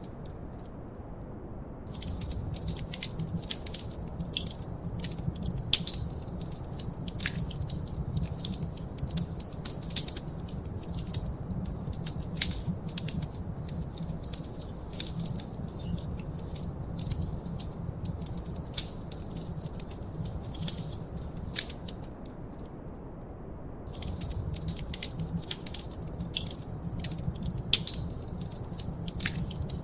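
Wood fire crackling in a fireplace: dense, irregular sharp pops and snaps over a low steady rumble. The crackling stops for about two seconds near the start and again about 23 seconds in, leaving only the rumble.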